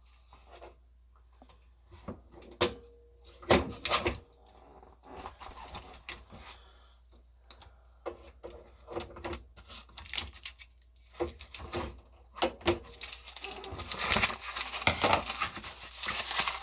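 Scattered clicks, knocks and rattles of hard plastic parts being handled on a small countertop dishwasher, with a patch of rustling near the end, as its packing and tape are pulled off.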